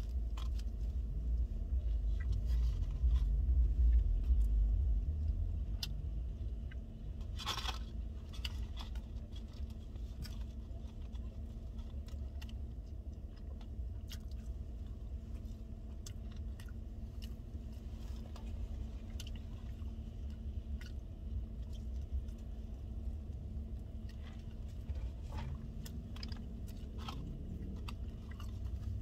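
A person chewing and biting into a tortilla wrap close to the microphone, with small wet clicks and one louder crunch about seven seconds in, over a steady low hum.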